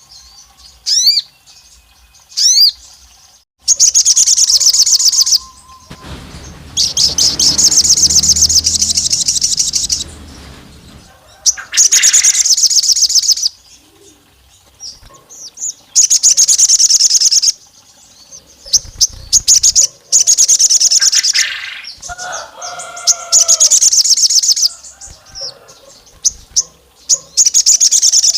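A sogon, as Indonesian bird-keepers call this songbird, singing at full pitch. It delivers about seven bursts of very fast, high trills, each one to three seconds long with short pauses between them, the long trilled 'shooting' phrases of an aroused bird.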